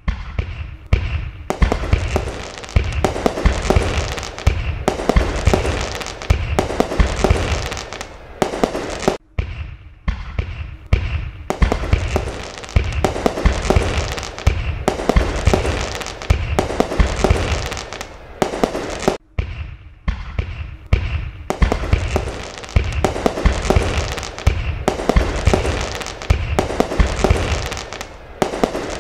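Fireworks going off in quick succession: deep booming bursts mixed with crackling, overlapping almost continuously, with brief pauses about every ten seconds.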